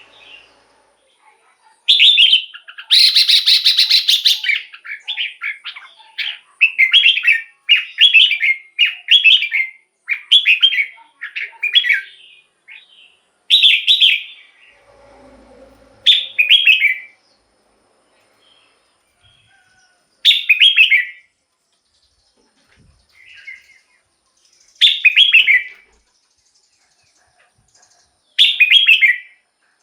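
Red-whiskered bulbul singing short, loud, chirpy phrases in a quick run for the first half, then single phrases every few seconds, with one harsh buzzy note early on.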